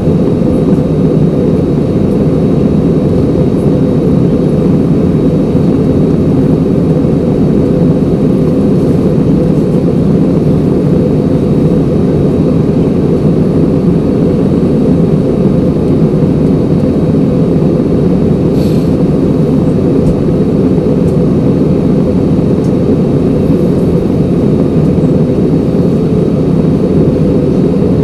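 Jet airliner cabin noise: the steady, loud, even rush of the engines and airflow heard from a passenger seat.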